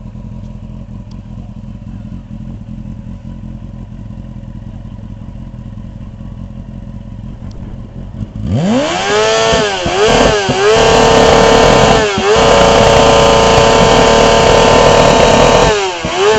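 Steady low rumble, then about halfway through a motorcycle engine revs up hard, with several quick dips in pitch like gear changes. It holds high revs for a few seconds, and the revs drop near the end.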